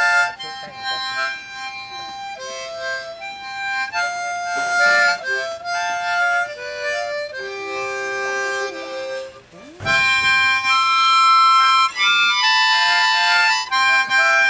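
A short harmonica played as a melody, with held single notes and chords changing about every half second. The playing breaks off briefly about ten seconds in, then resumes.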